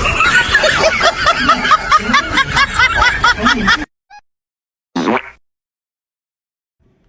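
High-pitched, rapid snickering laughter, many short squeaky bursts a second, that cuts off abruptly about four seconds in. A single short burst follows about a second later.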